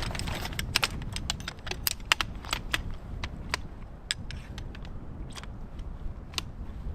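A rapid, irregular scatter of small sharp clicks and clinks, thickest in the first few seconds and thinning out after, over a steady low rumble of wind on the microphone.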